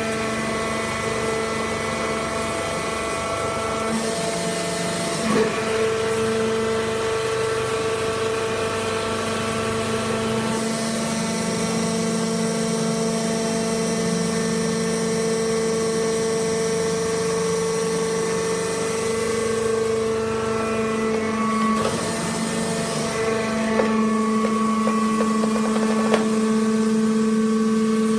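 Hydraulic wood-chip bagging baler running: a steady machine hum made of several pitched tones, which change pitch and strength a few times as it works.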